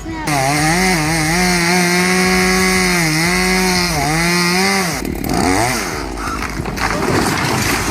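Chainsaw running at high speed under cut, its engine note dipping briefly a few times as it bogs in the wood. About five seconds in the steady note breaks off into a jumble of messier noise.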